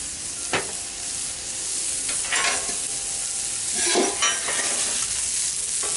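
Vegetables sizzling on a Blackstone flat-top griddle, with a steady frying hiss. A spatula scrapes and tosses them across the steel about four times as the seasoning is mixed in.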